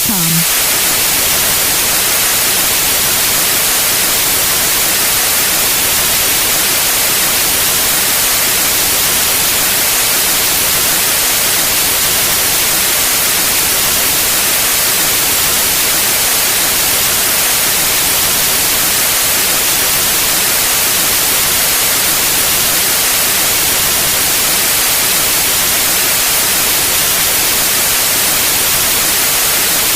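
Steady white noise: a constant, bright hiss spread evenly across all pitches, with no rhythm or change.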